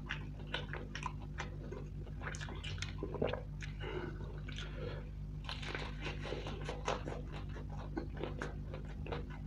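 Close-up crunching and chewing of crispy breaded fried chicken, with many sharp crackles of the coating breaking between the teeth.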